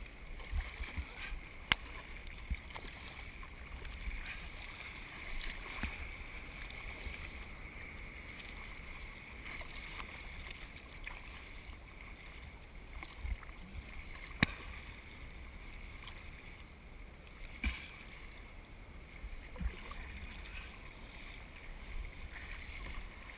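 Faint water and wind noise around a surf kayak on the ocean, with a few short sharp knocks.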